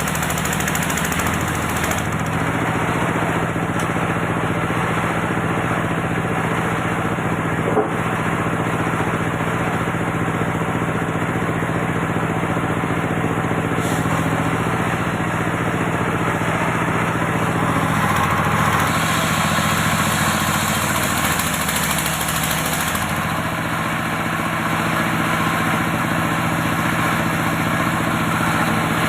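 Engine driving an antique circular sawmill running steadily with a constant drone. There is a single sharp knock about a third of the way in, and a brighter, hissier stretch for about five seconds past the middle as the blade works.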